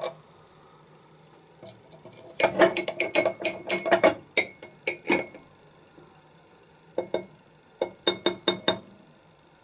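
Small hard parts clinking and clicking against each other and a hard surface, with a brief metallic ring. There is a quick run of about a dozen clinks a few seconds in and another run of about six near the end.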